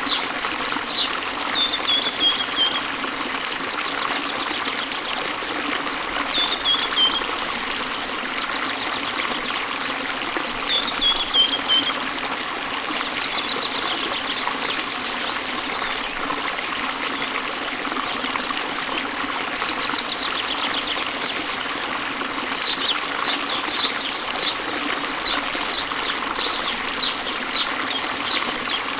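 Steady flow of falling, splashing water from a waterfall, with birds chirping over it in short phrases that drop in pitch, and a quick run of repeated high chirps near the end.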